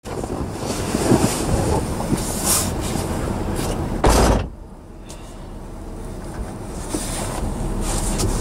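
Train running on the rails, a rumble with scattered clanks, broken off by a short loud rush of noise about four seconds in; after it a quieter steady rumble that slowly grows louder.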